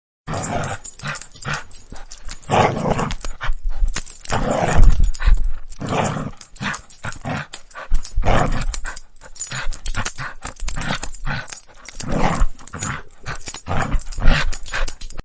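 A dog vocalizing almost without pause, a dense run of short, rough sounds, starting suddenly after silence and cutting off abruptly.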